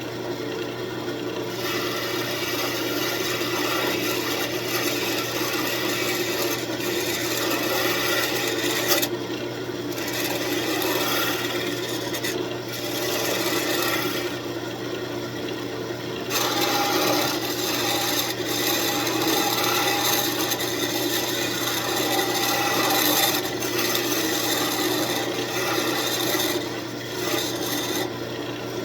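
Wood lathe running steadily while sandpaper is held against the spinning walnut, a continuous scratchy hiss that lifts off briefly three times as the motor hum carries on.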